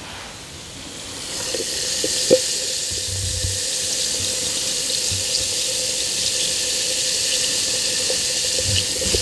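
Bath bomb fizzing in water close up: a steady hiss with faint tiny crackling pops. It swells about a second in.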